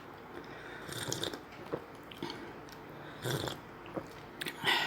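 A person chewing food close to the microphone, with wet mouth sounds; these are loudest about a second in, just after three seconds, and near the end.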